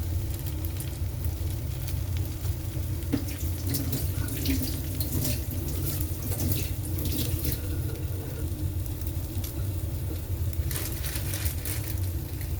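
Egg-soaked bread frying in a pan, sizzling with irregular crackles over a steady low hum.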